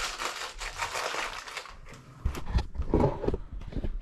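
Crinkling, rustling handling noise, then a quick run of heavy knocks and thuds about two seconds in.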